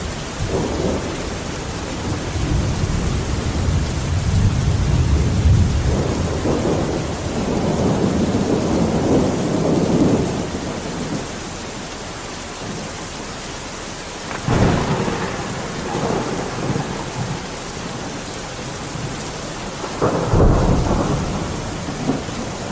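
Steady heavy rain with rolling thunder: a long low rumble over the first ten seconds, then sharper thunderclaps about fourteen seconds in and again near the end.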